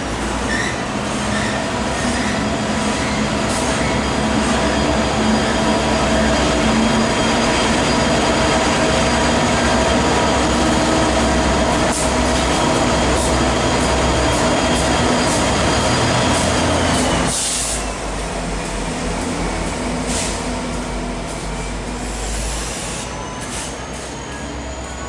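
A freight train rolls past close by: a steady rumble of steel wheels on rail with high, held wheel squeal, and a diesel locomotive passing near the middle. About two-thirds through, the noise drops suddenly as the train's end goes by, leaving a fading rumble with squeal tones that slide down in pitch.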